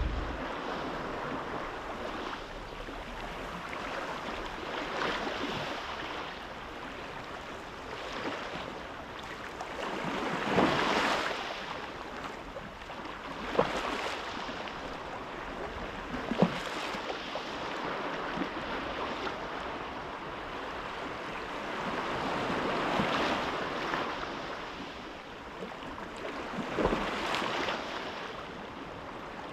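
Sea surf washing in and drawing back, the hiss swelling and fading every few seconds, with two short sharp clicks in the middle.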